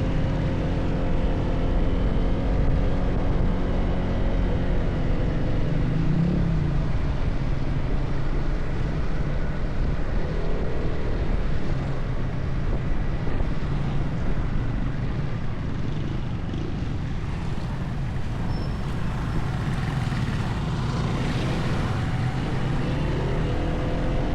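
Car engine and road noise, a steady low hum with a pitch that drifts slightly.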